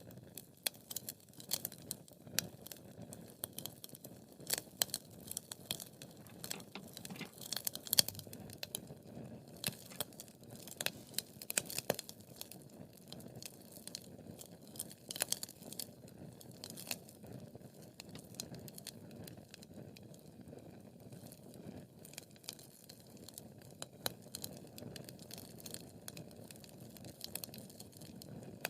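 Wood fire crackling: burning logs giving irregular sharp pops and snaps over a soft steady hiss of the flames.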